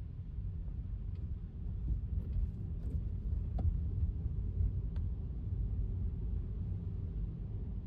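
Low, steady road and tyre rumble of a Tesla electric car driving on wet pavement, with a few faint light ticks scattered through it.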